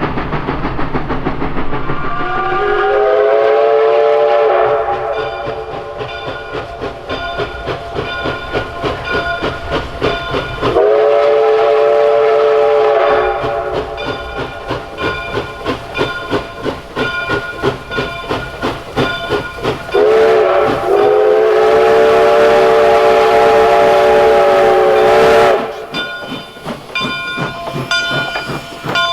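Steam locomotive's chime whistle blowing the grade-crossing signal, long, long, short, long, over the steady rhythmic clatter of the moving train. A bell rings steadily between the blasts.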